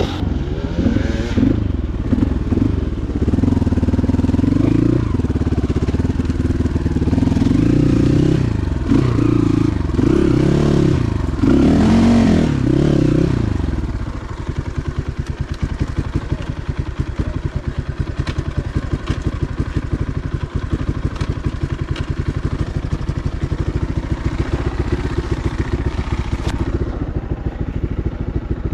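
Motorcycle engine revving up and down several times, then dropping to a steady low-rev run about halfway through.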